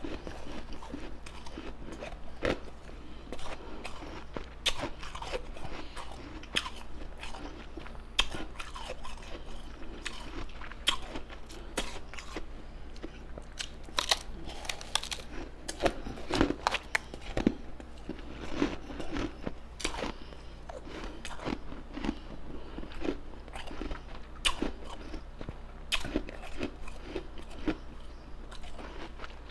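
Close-miked chewing and biting of ice: irregular sharp crunches as ice is bitten and ground between the teeth, with some softer mouth sounds.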